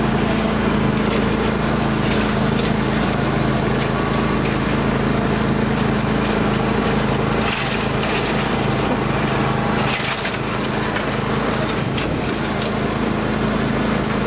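Riding lawn tractor's small engine running steadily at one speed, with a few brief clicks about halfway through.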